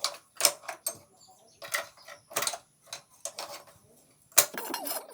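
Hand tools working on motorcycle parts: a string of short, irregular clicks and scrapes, then a longer, denser scraping rattle near the end.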